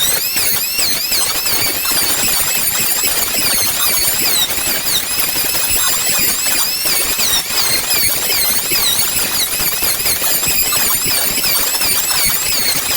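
Power planer cutting a pitch pine board: a high motor whine whose pitch wavers up and down under the load of the cut, over a dense rough chatter of the blades shaving the wood.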